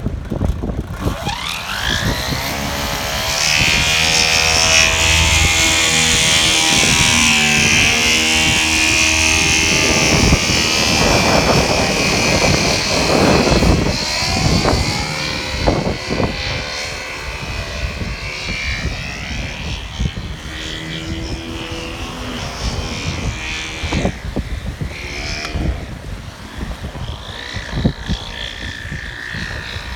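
Paramotor engine and propeller running, the engine note rising in the first few seconds. It is loudest for about ten seconds, then drops to a lower, steadier drone.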